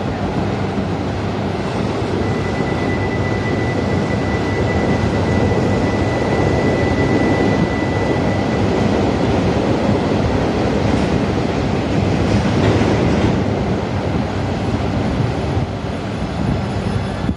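Coupled E2 and E3 series Shinkansen train running along the platform with a continuous rumble and rush of wheels and motors, with a thin steady high whine for several seconds in the first half.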